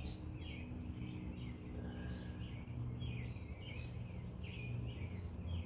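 A small bird chirping over and over, short quick notes about two a second, over a steady low hum.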